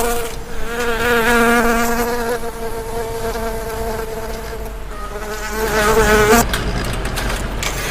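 A steady buzzing drone with a slightly wavering pitch, lasting about six seconds before cutting off abruptly.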